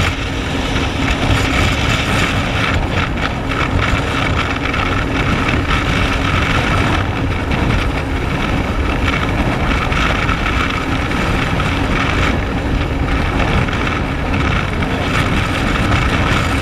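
Jet ski running steadily at speed, its engine drone mixed with wind noise on the microphone.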